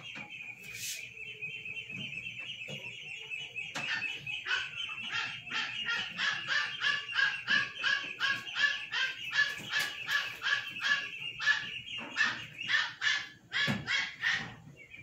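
Bird chirping in quick repeated calls, about two or three a second, over a steady high-pitched drone.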